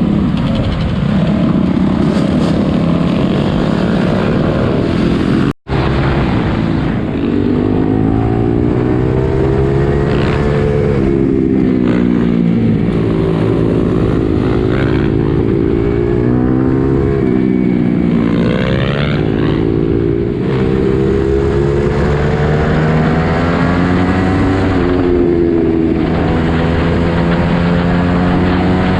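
Four-wheeler (ATV) engines revving, the pitch rising and falling over and over. The sound cuts out for an instant about six seconds in.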